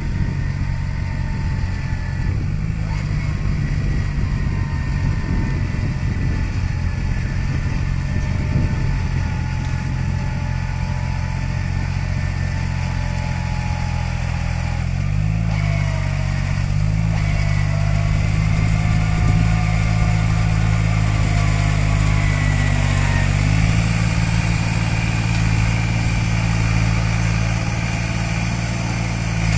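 Tractor diesel engine running steadily, its speed shifting slightly about halfway through and again about three-quarters in, with a faint wavering whine above the engine note.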